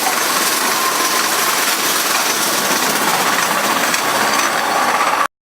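Union Pacific freight train rolling past, a steady rush of wheels on rail, played back at three times normal speed so it sounds high and hurried. It cuts off abruptly about five seconds in.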